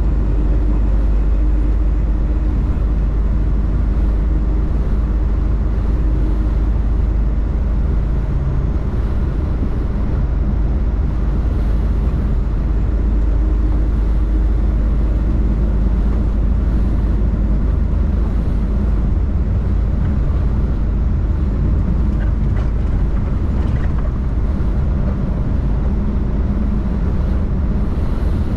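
Tractor-trailer's diesel engine and tyres, a steady low drone while driving at an even speed.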